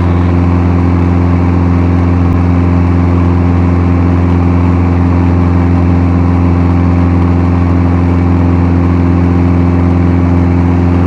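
Steady drone of a twin-engine Piper Seneca's piston engines and propellers, heard in the cockpit, with a constant low pitch that does not change.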